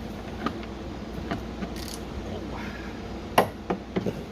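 A handful of short knocks and clicks from a chainsaw bar and chain being handled, the loudest about three and a half seconds in, followed quickly by a few smaller ones.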